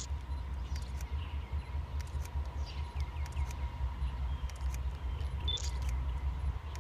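Low, steady rumble of a distant diesel-hauled freight train approaching, with a faint steady hum and a few faint chirps over it.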